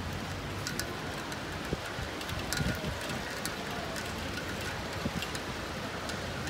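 Steady rain falling on a city street, with scattered sharp ticks of drops landing close by.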